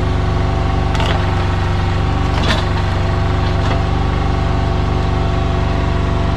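Excavator's diesel engine running steadily under working load, with three sharp knocks about one, two and a half and nearly four seconds in.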